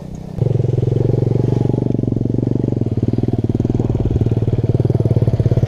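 Small single-cylinder motorbike engine running close by. It gets suddenly louder about half a second in, then holds a steady, fast pulsing beat.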